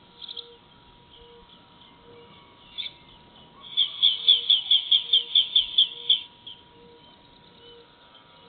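A bird calling: a brief high chirp near the start and another about three seconds in. Then comes a rapid run of about a dozen sharp, high notes at roughly five a second, lasting about two and a half seconds.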